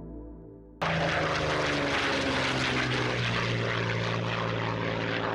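Propeller aircraft's piston engine running loud and steady, cutting in suddenly about a second in; its low note drops slightly partway through. The tail of soft ambient music fades out just before it.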